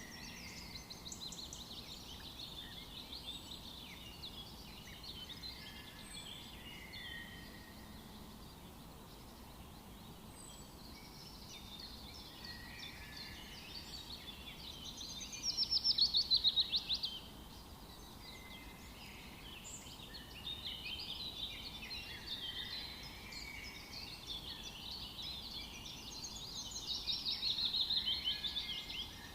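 Several songbirds singing and calling at once in a continuous, overlapping chorus. A louder, fast run of notes falling in pitch stands out about halfway through, and another comes near the end.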